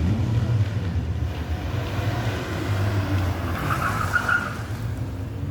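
Rally car engine running with a steady low rumble, and a brief higher-pitched squeal a little over three and a half seconds in.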